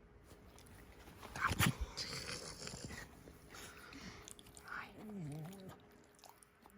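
A dog stirring from sleep: wet mouth-smacking and licking sounds, loudest about a second and a half in, then a short low groan that bends down in pitch near the end.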